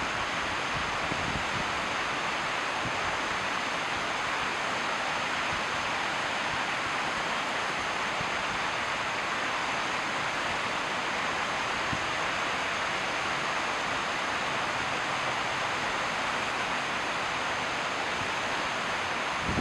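Steady, even rush of running water, with no bird calls standing out.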